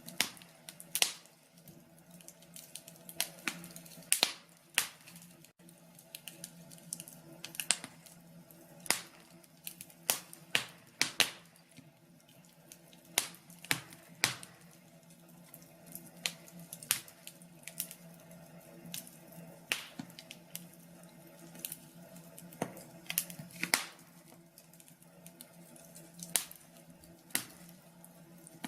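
Wood fire crackling in a fireplace: irregular sharp pops and snaps, a few a second, over a low steady hum.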